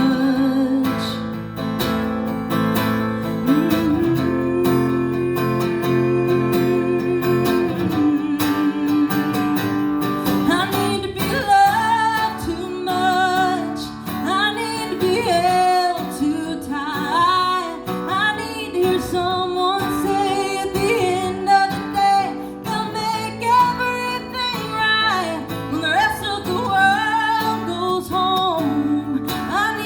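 A woman singing to acoustic guitar. The first stretch is held instrumental notes, and the voice comes in about ten seconds in with a wavering, vibrato-laden line.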